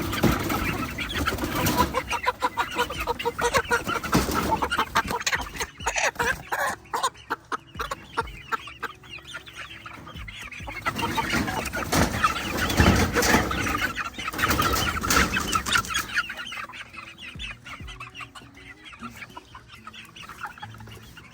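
A group of chickens clucking and squawking as they are handled and caught, agitated, loudest in two spells near the start and around the middle, then settling down over the last few seconds.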